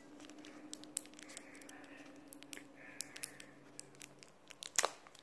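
Toy packaging being worked open by hand: faint, scattered clicks and plastic crinkles, with one louder click near the end. The package is hard to open.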